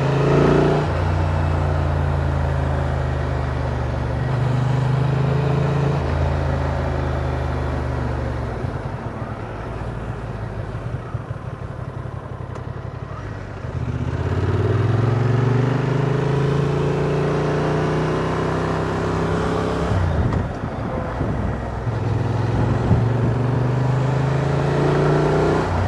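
Honda Transalp motorcycle engine running at a steady cruise. About a third of the way in it eases off for several seconds, then rises in pitch as it accelerates again, with a short dip later on, over a hiss of wind and road noise.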